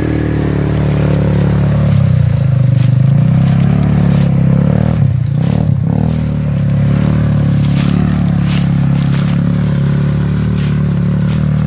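ATV engine running under varying throttle, its pitch rising and falling as it revs, with scattered sharp clicks and scrapes over it.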